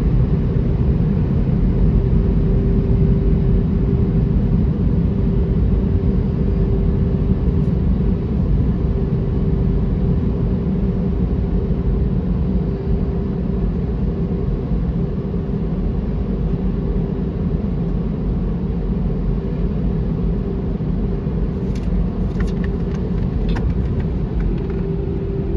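Automatic car wash machinery running: a steady low rumble with a constant mid-pitched hum, and a few faint ticks near the end.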